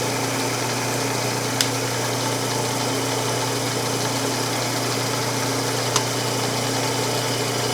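Electric drill running steadily at constant speed while drilling holes in a scrap of wood, with two short ticks about a second and a half and six seconds in.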